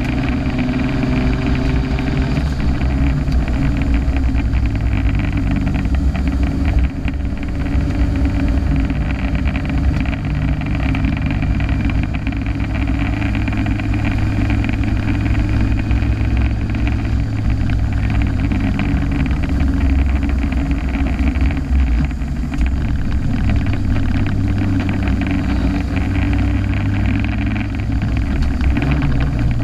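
Turbocharged car engine running hard on a race circuit, heard from an onboard camera, with tyre and road noise under it. Brief dips in loudness come about seven and twenty-two seconds in.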